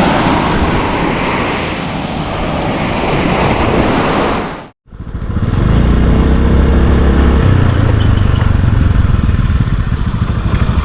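Wind rushing over the microphone of a moving motorbike, then, after a brief break, the motorbike's engine running loudly, its pitch climbing for a moment before settling steady.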